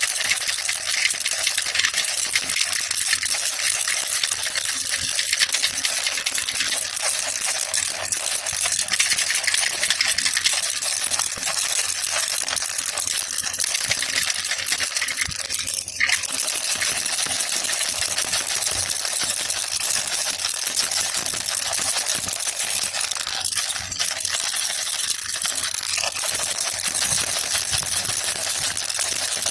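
Baby rattle (jhunjhuna) shaken continuously: a dense, steady rattle of many small clicks with no pauses.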